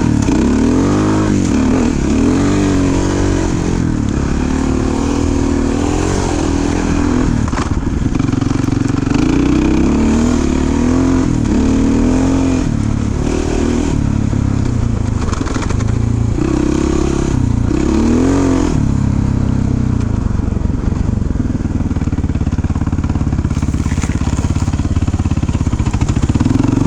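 Single-cylinder dirt bike engine under way on a trail, revving up and dropping back again and again as it rides, then holding steadier through the second half.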